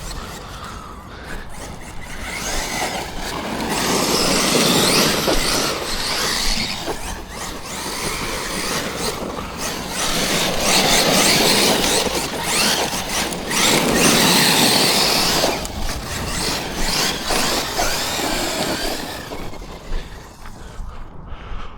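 Electric RC monster truck's brushless motor and drivetrain whining as it is driven hard across rough dusty ground, the sound swelling and fading in several long throttle surges.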